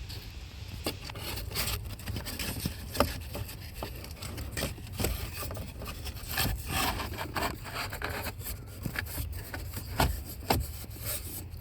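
Car cabin air filter being slid into its housing behind the glove box: scraping and rubbing against the housing, with scattered light knocks and clicks.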